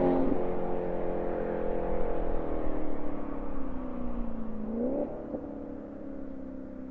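Maserati Quattroporte GTS's 4.7-litre V8 running with its pitch falling slowly as the car slows. About five seconds in it gives a quick rev blip, then settles to a steady lower note as the sound fades.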